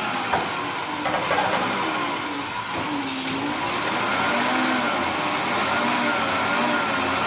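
Heavy logging truck engine running under load, its pitch rising and falling repeatedly.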